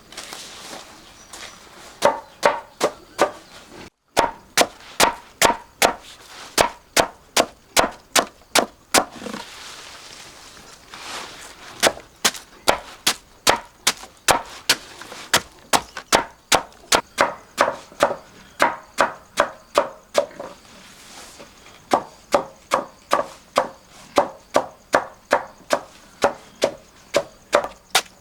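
A knife chopping purple taro stalks on a wooden board: quick, even strokes about three a second, in three runs broken by two short pauses.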